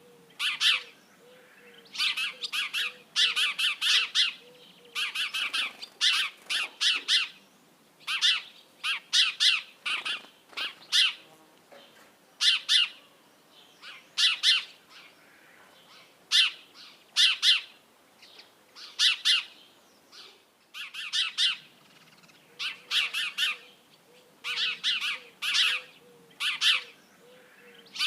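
House sparrows chirping: quick clusters of short, sharp chirps, a new cluster every second or two.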